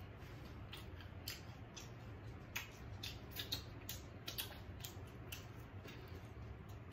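Close-up eating sounds: irregular wet smacks and clicks of chewing and finger-licking, over a faint steady low hum.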